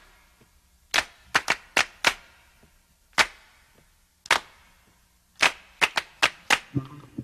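A series of about a dozen sharp, separate cracks or snaps at uneven spacing: a quick cluster of four or five about a second in, single ones after that, and another quick run of five near the end.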